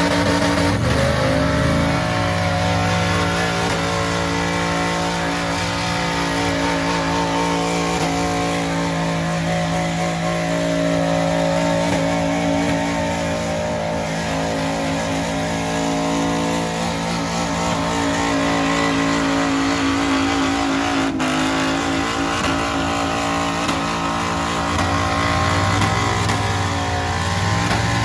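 Truck engine revving hard under load in a tug-of-war pull: it climbs about a second in, then holds at high revs, nearly steady.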